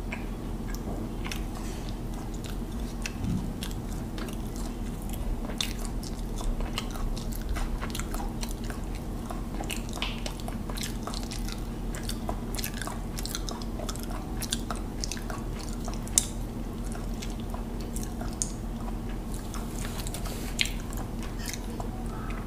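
Close-miked chewing and wet mouth sounds of a person eating hilsa biryani by hand, with frequent small smacking clicks and a few sharper ones later on, over a steady low hum.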